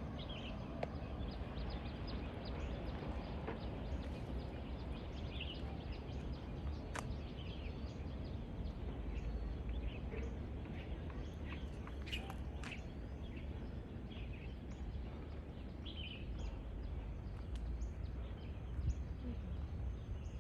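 Outdoor trail ambience: a steady low rumble, like wind on the microphone, with faint bird chirps now and then and light clicks that fit footsteps.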